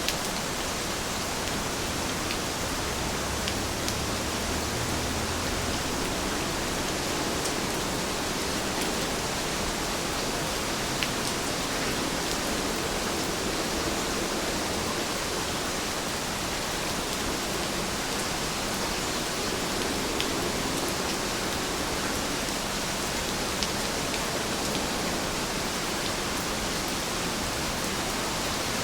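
Steady rainfall: an even hiss with a few louder drops ticking now and then.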